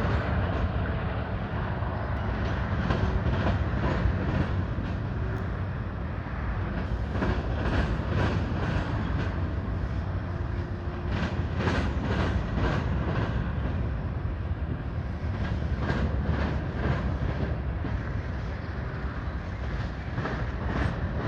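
BNSF freight train rolling past: a steady rumble with frequent clicks of steel wheels over rail joints, thickest in the middle.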